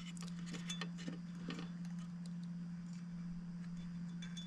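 Faint scattered clicks and taps of small plastic model-locomotive parts being handled and pried apart, over a steady low hum.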